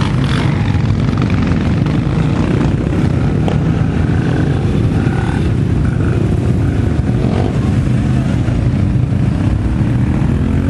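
Quad and off-road motorcycle engines running, a loud, steady engine noise without pauses.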